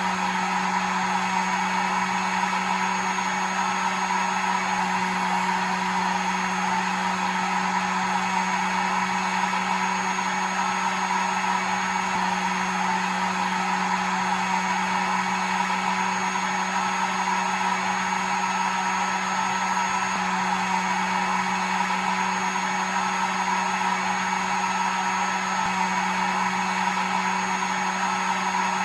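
Hair dryer running steadily: a continuous blowing rush with a low motor hum and a thin high whine.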